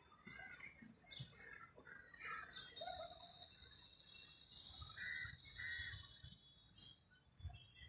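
Faint birdsong: scattered short chirps and calls, with a thin steady high note through the middle, over soft low bumps from the phone being handled.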